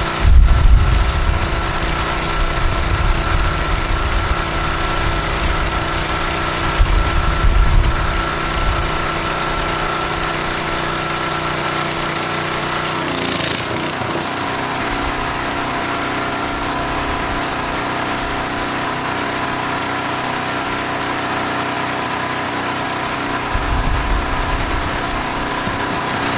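Gas-engine pressure washer running steadily while water sprays from the wand, with a steady hiss over the engine note. About halfway through the engine note shifts.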